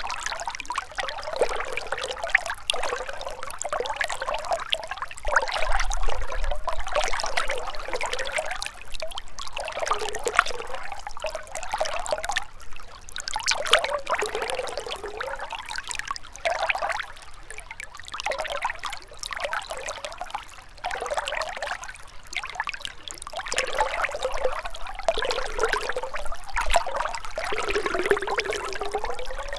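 River water trickling and gurgling over stones, steady with small swells every second or two.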